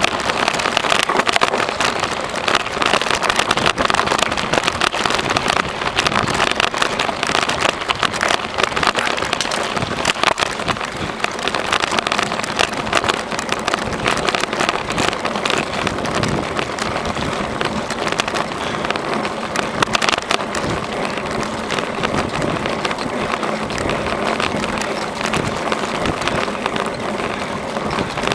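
Bicycle rolling along a rough trail: the tyres and frame give a continuous dense crackle and rattle over the surface.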